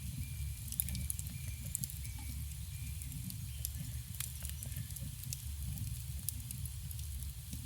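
Campfire burning: wood crackling with scattered sharp pops every second or so over a steady low rumble.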